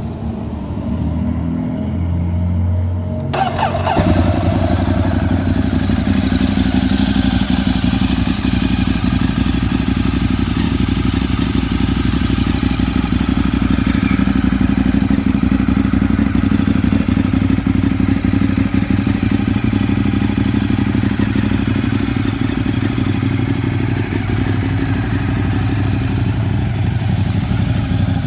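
Ducati 848's 90-degree L-twin engine, fitted with a Termignoni exhaust, turning over on the starter from cold and catching about four seconds in, then idling steadily.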